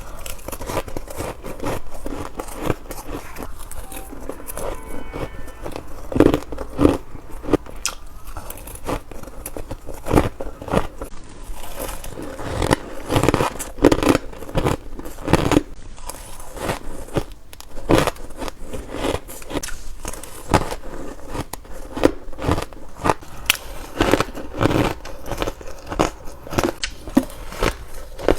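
Ice being bitten and crunched between teeth, a rapid irregular run of sharp cracks and crunches.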